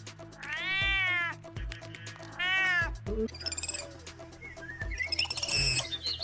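A cat meowing twice, each meow a long call that rises and falls in pitch, over background music with a steady beat. High-pitched chirps come in during the second half.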